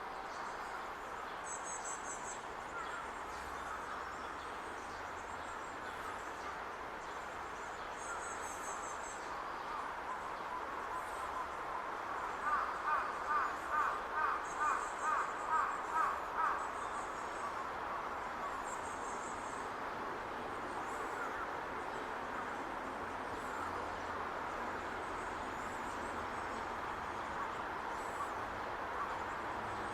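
Great spotted woodpecker nestling begging from its nest hole while it waits to be fed: a steady chatter, with a louder run of about a dozen quick calls, some three a second, in the middle. Short high, thin trills of another small bird come and go.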